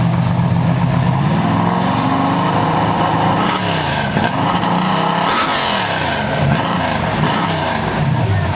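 Drag-race car engines revving, their pitch climbing and falling repeatedly, with two engines' tones crossing each other in the middle.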